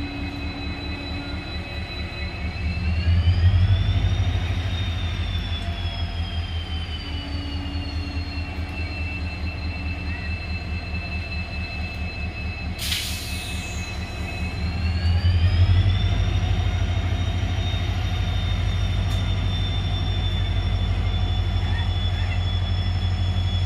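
A passenger train's locomotive running: a deep rhythmic throb under a high steady whine, both rising in pitch and loudness about three seconds in and again about fifteen seconds in, with a brief sharp hiss about halfway through.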